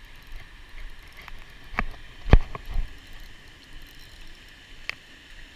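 A few sharp knocks and thumps from landing and handling a just-hooked crappie, the loudest about two and a half seconds in, with one more light knock near the end.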